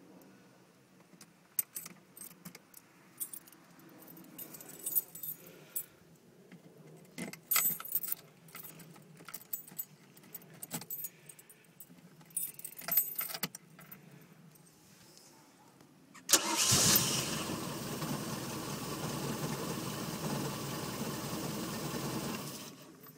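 Scattered clicks and key-like rattling, then about 16 seconds in the 1996 Chaparral boat's engine starts with a sudden burst and runs steadily for about six seconds before it is shut off. It is run only briefly because the boat is out of the water with no cooling water.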